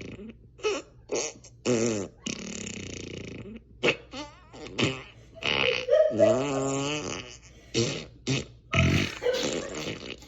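A rapid series of fart sound effects played by an Amazon Alexa smart speaker: short pops alternating with longer, wavering, pitched ones, about a dozen in a row with brief gaps between them.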